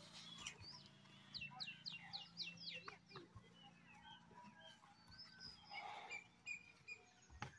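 Faint birdsong: a quick run of falling chirps in the first few seconds, then scattered single calls, over a faint low hum.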